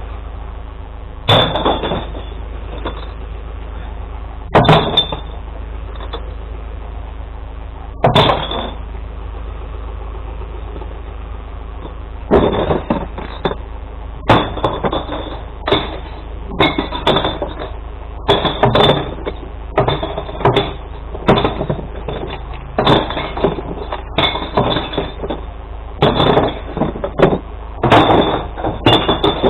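Glass bottles crashing and smashing as they are tipped into a glass recycling truck, over the steady hum of the truck's engine. Three single crashes a few seconds apart, then after a pause a near-continuous run of crashes, about one a second.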